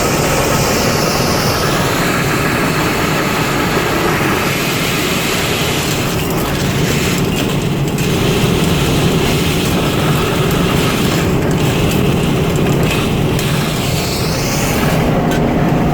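A 60-horsepower high-vacuum industrial vacuum cleaner running at full suction: a loud, steady rush of air over a deep hum. The hiss of the intake rises and falls in pitch near the start and again near the end.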